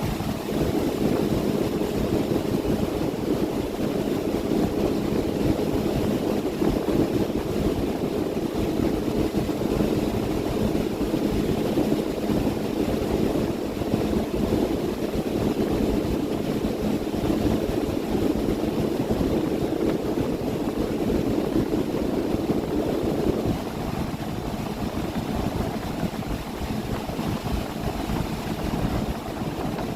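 Engine of a 30 ft boat running steadily under way, with wind and water noise. Its drone gets quieter about three quarters of the way through, while a low steady hum carries on.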